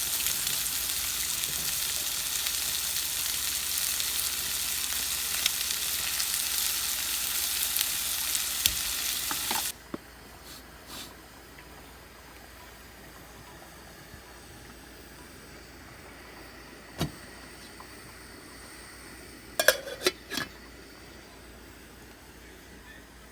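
Food sizzling as it cooks, a steady hiss that cuts off suddenly about ten seconds in. After that there is a much quieter background with a few short clicks and knocks.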